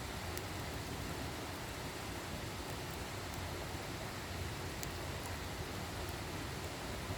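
Wood fire burning with a steady hiss and a few faint, scattered crackles.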